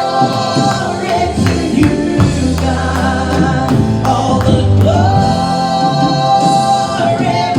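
Live gospel worship music: singers holding sustained notes over a band with a steady bass and a regular beat of drum hits.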